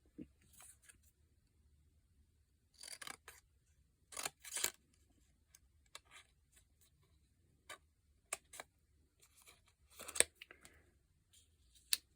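Scissors snipping paper, cutting strips from old book pages: short irregular snips in small clusters, a few seconds apart, with light paper clicks between.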